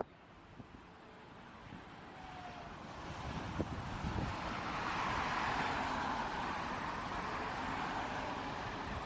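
Jet airliner engines on departure: the engine noise swells over several seconds, peaks about five seconds in, then holds, easing only slightly.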